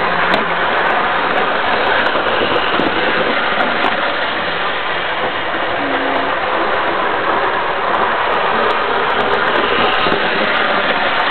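00 gauge model train running steadily on its track: a continuous whirring rumble from the locomotive's motor and wheels.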